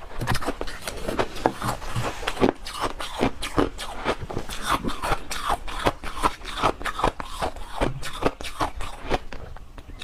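Close-up crunching and chewing of freezer frost: a rapid, irregular run of crisp crunches, several a second.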